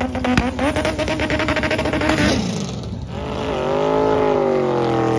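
Drag car engine held at steady high revs with a rapid crackle of pops, like an engine held on a two-step launch limiter. The note drops away about two seconds in, then the engine is revved up again and held, wavering slightly in pitch.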